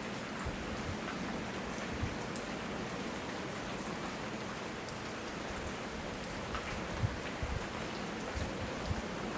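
Steady tropical rain falling and pattering on surfaces, with a few louder low thuds of heavier drops; the strongest comes about seven seconds in.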